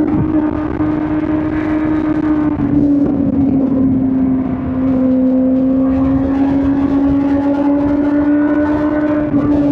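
Suzuki GSX-R1000 K5's inline-four engine pulling steadily under way at fairly constant revs, its pitch sagging slightly in the first few seconds and then holding.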